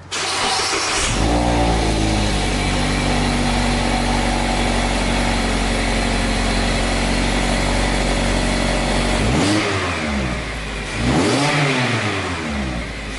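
A 2016 Mazda MX-5 Miata (ND) four-cylinder engine on its stock exhaust is started: it cranks for about a second, catches, and settles to a steady idle. Near the end it is revved twice, each rev rising and falling, with a third beginning right at the end. The exhaust note is tame.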